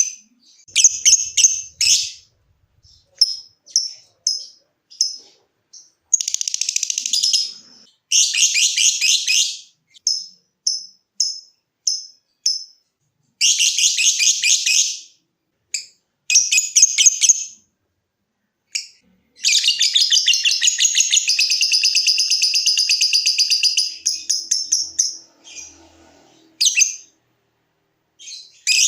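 Lovebird calling: runs of short, sharp chips ("ngetik") alternating with fast chattering trills ("ngekek"), the longest trill lasting about four seconds a little past the middle.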